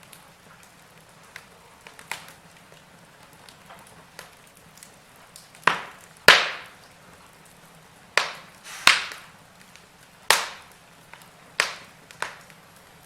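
Wood fire crackling: sharp pops and snaps at irregular intervals, several loud ones in the second half, over a faint steady hiss.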